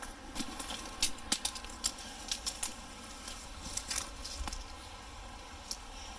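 Footsteps crunching and rustling through dry leaves and twigs, a run of irregular crackles and snaps, as someone scrambles down a steep bank.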